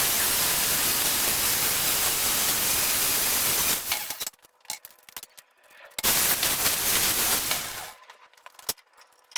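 MIG welding on van bodywork steel: two runs of steady crackling arc, the first about four seconds long, the second about two seconds, with a pause and a few small clicks between.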